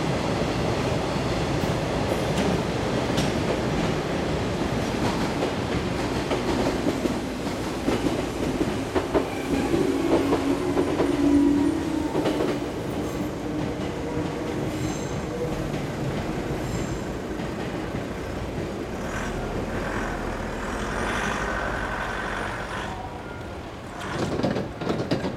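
Meitetsu train running over the tracks at a level crossing, a steady rumble of wheels on rail with a short pitched tone about ten seconds in. The noise eases off a couple of seconds before the end.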